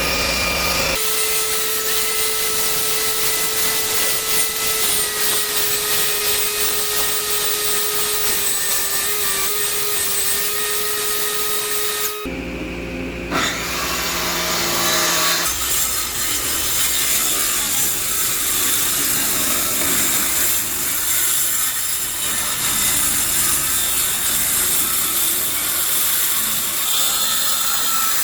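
Power tool cutting or sanding wood, its motor holding a steady tone. About halfway through the sound changes abruptly to a rougher, noisier stretch of machining.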